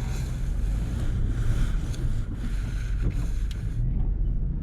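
Plow truck engine running with a steady low rumble and a rushing hiss of the blade pushing snow; the hiss drops away near the end.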